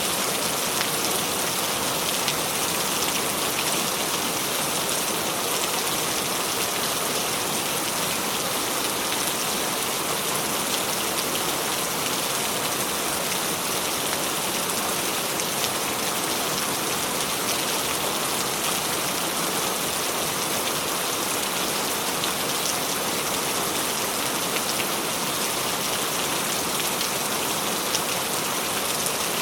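Steady rain falling: an even, dense patter of raindrops.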